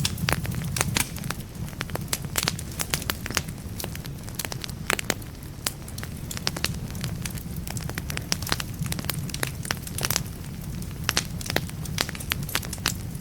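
Wood fire burning in a fireplace: irregular sharp crackles and pops of burning logs, several a second, over a steady low rumble of the flames.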